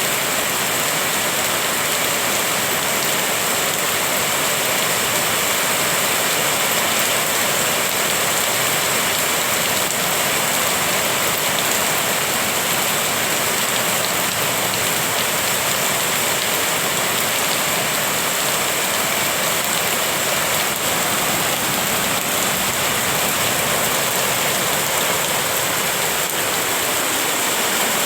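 Steady rain falling, a dense even hiss with no pauses.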